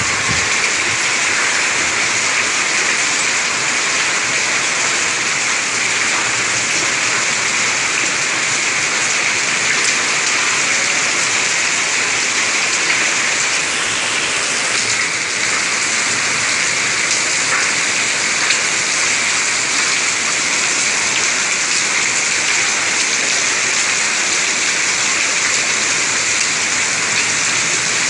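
Hailstorm: rain and hailstones pelting down hard in a dense, steady hiss, with faint scattered ticks of stones striking surfaces.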